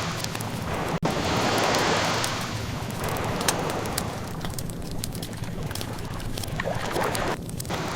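Ocean waves washing on the shore, loudest at first and then easing off, with a few sharp pops from a crackling wood fire.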